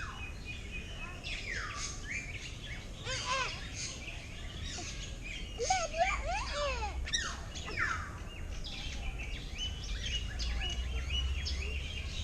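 Several birds singing and calling at once, a dense run of chirps and quick sweeping whistles that rise and fall.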